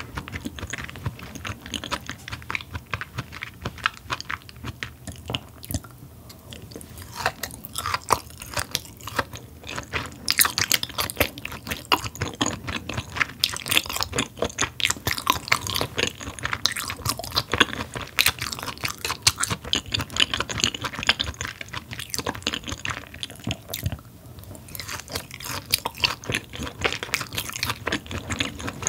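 Close-miked chewing of raw Korean beef yukhoe: a dense, uneven run of mouth clicks, easing off briefly twice.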